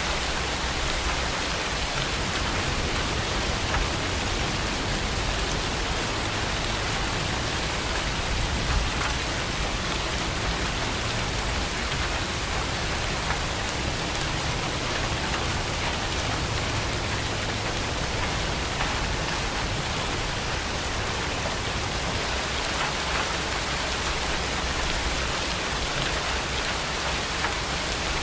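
Heavy rain falling steadily: an even hiss of drops, with a few sharper drop taps here and there.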